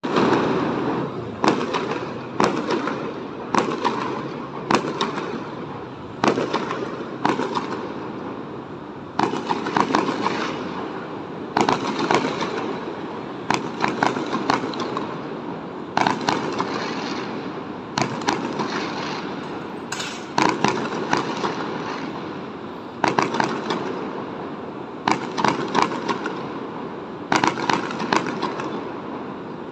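Aerial fireworks going off in quick succession: sharp bangs every second or two, each fading away, over a continuous crackle from other shells bursting.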